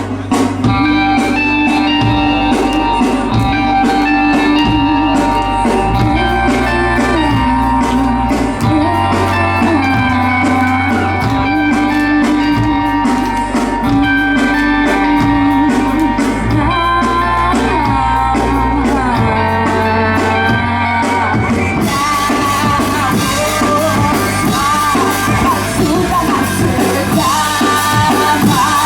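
Live rock band playing with electric guitar, bass and drums, with singing over it. About three-quarters of the way through, cymbals come in and the sound grows brighter.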